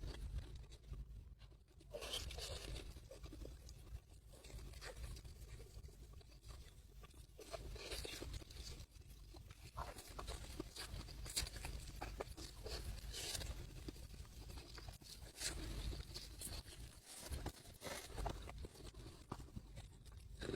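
Close-miked chewing of crunchy food, with irregular crackly crunches over a steady low hum.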